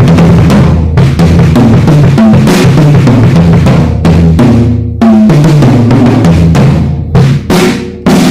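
Drum kit with freshly fitted heads played hard, recorded on a mobile phone: fast continuous runs around the drums with bass drum and snare, then a few separate accented hits with ringing cymbals near the end.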